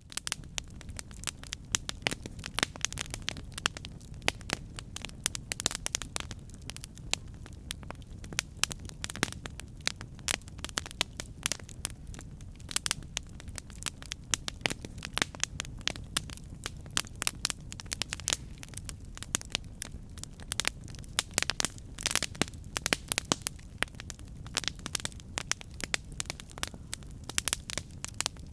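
Campfire burning: wood crackling with frequent sharp, irregular pops over a steady low rumble of flame.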